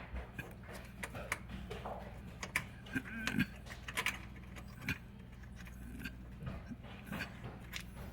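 Scattered light metallic clicks and taps of hand tools working on the fittings under a built-in dishwasher being removed, over a steady low hum.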